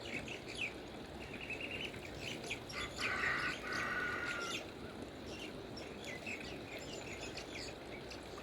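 Small birds chirping, with many short calls throughout and a louder, held call from about three to four and a half seconds in, over a steady rushing background noise.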